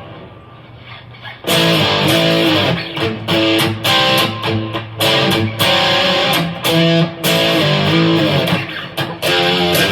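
Electric guitar played through a Donner Dark Horizon distortion pedal: distorted chords and riffs, rich in overtones, with short stops between phrases. It is quieter for the first second and a half, then comes back in loud.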